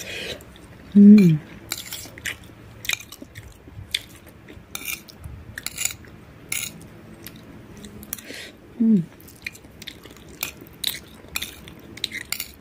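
A person chewing soft rice and tempeh close to the microphone: wet chewing with many small mouth clicks and smacks. Two short voice sounds falling in pitch come about a second in and again about nine seconds in.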